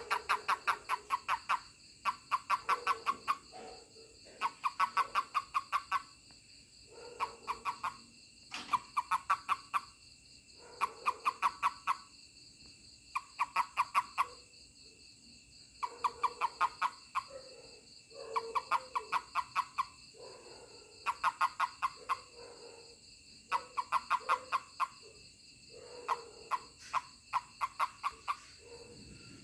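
Toad calling in groups of rapid pulsed chirps, a trill of about seven pulses a second lasting a second or two, repeated again and again with short pauses; it is the call a toad gives when touched.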